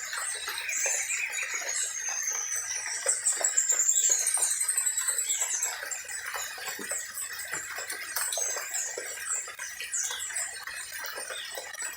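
Several birds chirping and singing at once, a dense chorus of short high chirps and whistled trills, busiest a few seconds in.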